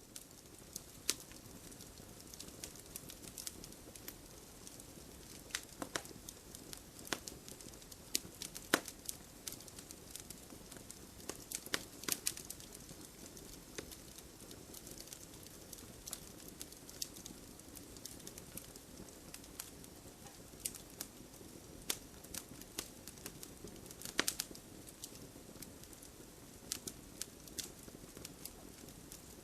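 Wood fire crackling in a fireplace: a steady low hiss of burning logs with irregular sharp pops and snaps, a few louder ones scattered throughout.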